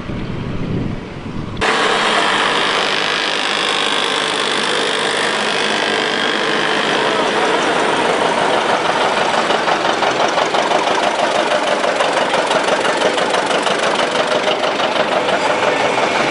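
Antique tractor engines running with a steady putt that turns into a rapid, even pulsing. For the first second and a half there is only low wind rumble on the microphone before the engine sound cuts in abruptly.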